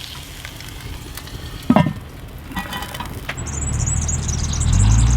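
Lamb shanks sizzling as they brown in a pot, with a sharp knock about two seconds in. From the middle on, a small bird chirps in a quick high trill, and a vehicle engine's low rumble builds up to become the loudest sound near the end.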